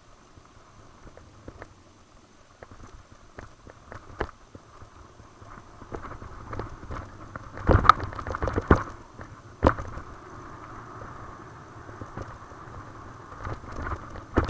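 Mountain bike rolling over a rough dirt trail: a steady rolling hiss with frequent rattles and clicks. A cluster of loud knocks comes just past the middle as the bike hits bumps.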